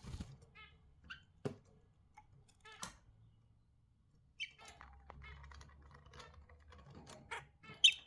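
Budgerigars chirping and chattering in short, quick calls, mixed with sharp clicks and taps. One loud, high chirp stands out near the end.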